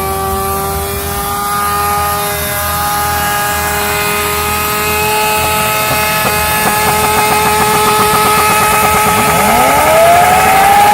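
Sport motorcycle engine with an open, straight-piped exhaust held at high revs. From about six seconds in the note stutters rapidly as it bounces off the rev limiter. Near the end a second engine revs up, its pitch rising sharply.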